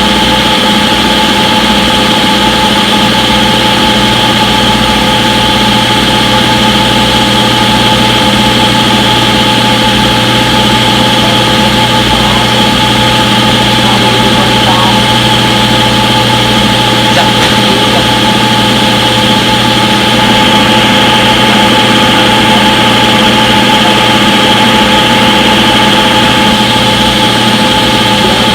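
Front-load washing machine on its spin cycle, the drum spinning steadily at speed: a loud, even motor hum with several fixed tones and no change in speed.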